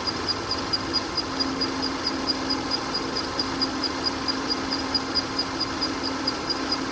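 2018 Land Rover Discovery 3.0 L supercharged V6 petrol engine idling steadily, with a sharp, regular ticking about six times a second.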